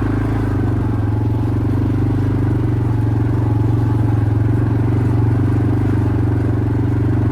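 Quad bike engine running at a steady, unchanging speed.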